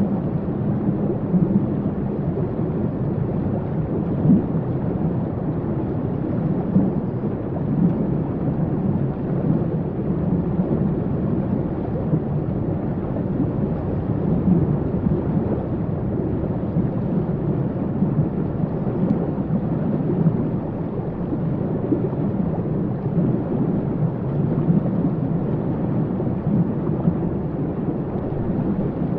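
Waterfall running, a steady, deep rush of falling water.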